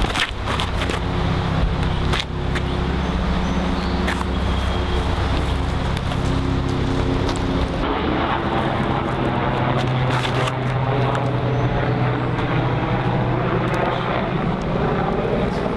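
Steady engine drone of a passing vehicle, its low hum shifting in pitch about halfway through.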